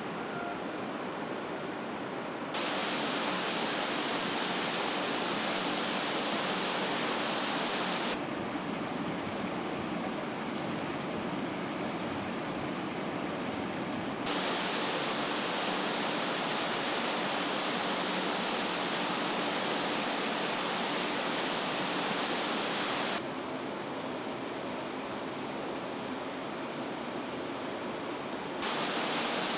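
Steady hiss-like factory-floor background noise that changes abruptly several times between a louder, brighter hiss and a duller, quieter one.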